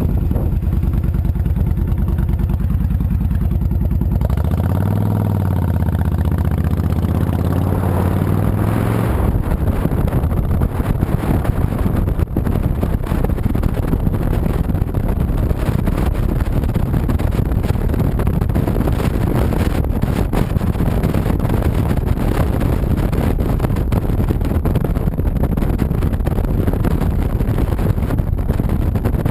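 The 2007 Honda VTX 1300C's V-twin engine runs under way. About five seconds in it revs up and falls back over several seconds. After that a steady rush of wind and road noise covers the engine.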